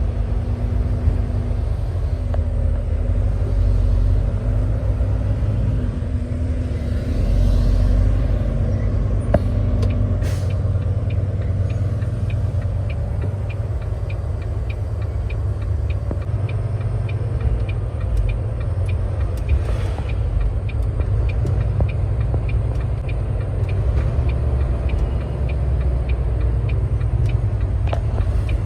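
Semi truck's diesel engine running with a steady low rumble as the tractor-trailer drives. A regular light ticking sets in about twelve seconds in and keeps on.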